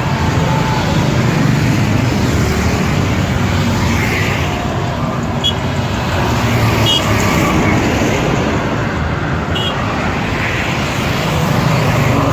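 Motorcycle on the move on a road: steady engine and wind noise with traffic around it.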